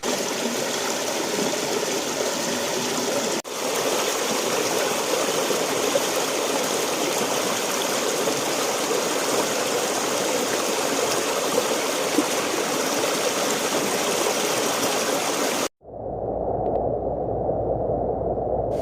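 Forest creek flowing over rocks, a steady rush of running water. Near the end it cuts to a duller, muffled rush with the higher part of the sound gone.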